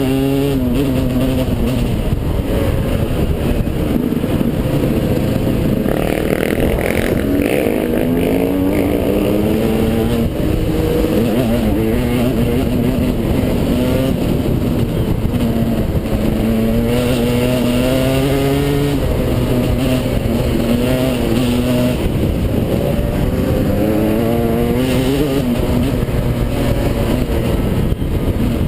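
Dual-sport motorcycle engine under way. The revs climb and drop again several times as it pulls through the gears, over heavy wind rush on the microphone.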